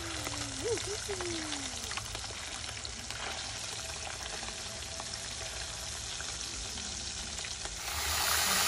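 Food frying in hot oil, a steady crackling sizzle that grows louder near the end.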